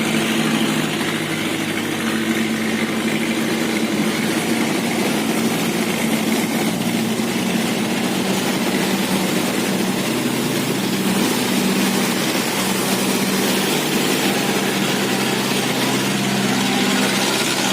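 Engines of several small motorboats running together, a steady drone made of overlapping engine pitches that shift now and then as the boats move.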